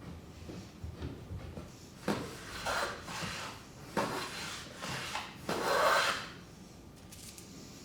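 A hand tool scraping along cedar in several separate strokes, each under a second, the last the longest and loudest, as a groove is cut by hand.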